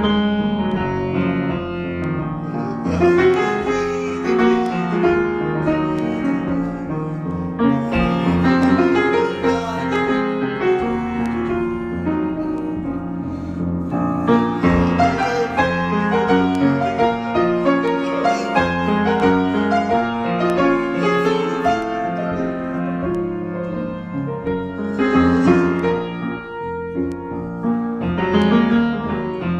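Piano improvisation: notes and chords played continuously, without a break.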